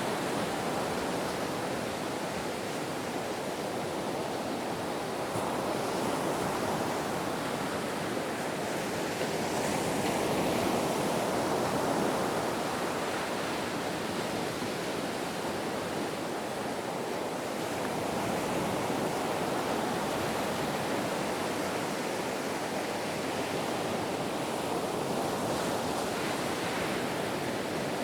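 Ocean surf: a continuous rush of breaking waves that swells gently and eases off again several times.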